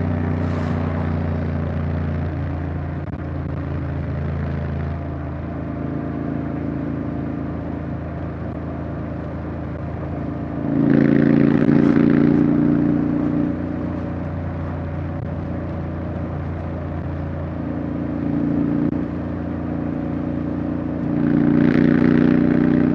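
Honda X-ADV 750's parallel-twin engine running at a steady cruise, growing louder twice as the throttle is opened.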